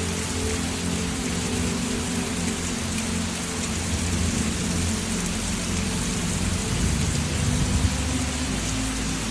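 Steady rain falling, with low sustained musical tones underneath.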